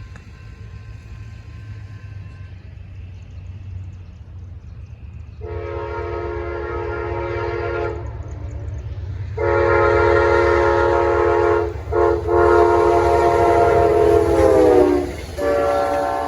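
Amtrak P42DC locomotive's horn blowing long blasts over the low rumble of the oncoming train, starting about five seconds in. The third blast drops in pitch near its end as the locomotive passes, and the last, shorter blast sounds lower.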